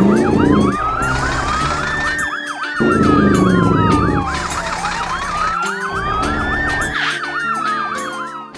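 Cartoon fire-truck siren: a slow wail rising and falling twice with a rapid warbling yelp over it, over background music. Two short whooshes come at the start and about three seconds in.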